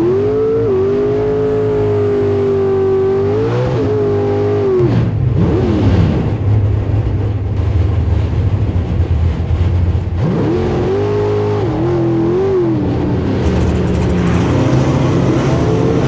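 Big-block Chevy V8 of a 1,000 hp drag car revving hard: held at high revs for about four seconds, dropping back to a lower rumble, then held high again for about two seconds before easing off.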